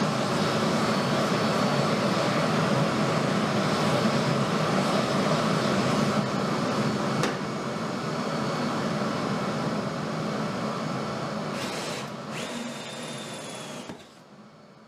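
A woodworking power tool running steadily. It gets quieter about seven seconds in, gives a brief high whistle near the end, then dies away.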